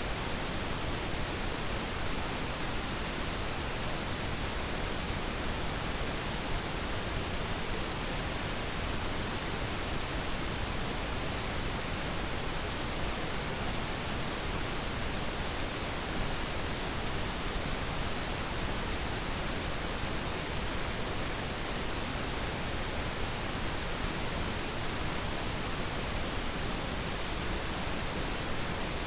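Steady synthetic pink noise: an even, unchanging hiss spread across all pitches, used as a focus background.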